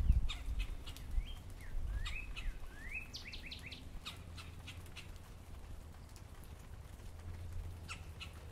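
Songbirds calling: sharp, scattered chip notes, with a run of short rising whistled notes in the first few seconds followed by a quick burst of chips. A low thump at the very start.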